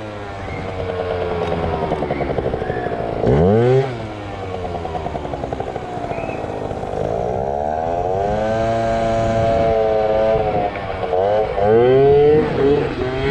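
Yamaha ZR Evo two-stroke motorcycle engine revving up and down. There is a sharp blip of the throttle about three seconds in, a long climb in pitch around the middle, a drop, and quick blips near the end, as the throttle is worked to lift the front wheel.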